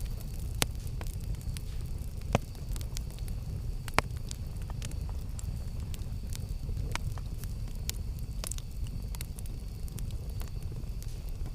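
Campfire burning, with a steady low rumble and scattered sharp crackles and pops of burning wood, three of them louder than the rest.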